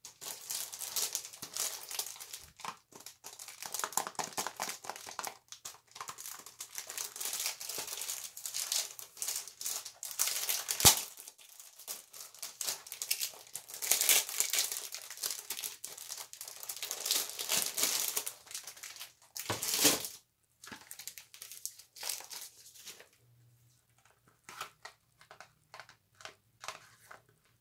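Close crinkling and crackling from bars of soap being handled, in dense irregular bursts. There is one sharp click about eleven seconds in, and the sounds grow sparser and quieter near the end.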